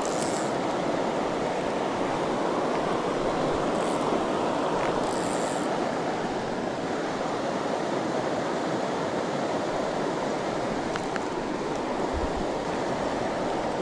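River water rushing steadily around the angler, an even flowing noise with no breaks.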